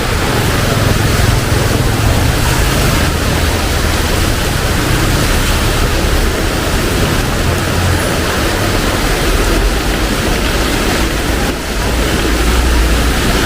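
Heavy tropical rain pouring steadily, a loud even hiss with a low rumble underneath.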